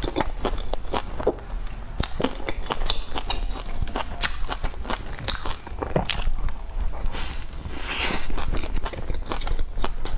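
Close-miked chewing and biting of a crisp-crusted bread stuffed with melted cheese: a steady run of wet mouth clicks and small crackling crunches, with a fresh bite taken about six seconds in.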